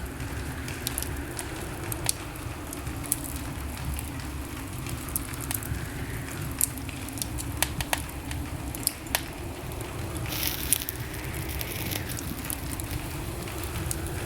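Wood fire crackling in a fireplace: scattered sharp pops and snaps over a steady low rumble of burning, with a brief hiss about ten seconds in.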